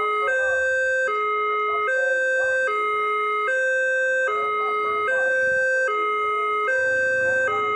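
Electronic railway level-crossing warning alarm sounding its two-tone signal, alternating between a lower and a higher note about every 0.8 seconds: the crossing is active, warning of an approaching train. A low rumble comes in near the end.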